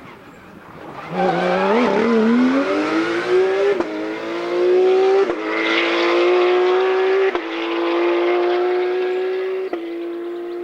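Rally car accelerating hard on a stage, its engine pitch climbing in each gear with four quick upshifts, each marked by a sharp drop in pitch and a short click. The engine note eases off near the end.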